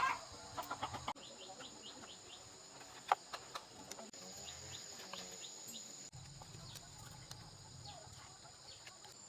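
Faint bird calls: quick runs of short, high chirps, with a single sharp click about three seconds in.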